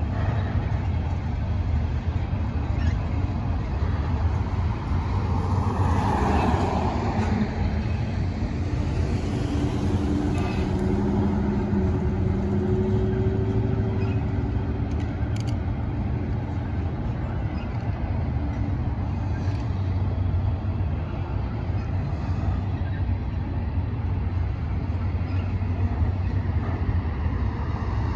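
Steady low rumble of a Union Pacific double-stack intermodal train rolling over a bridge.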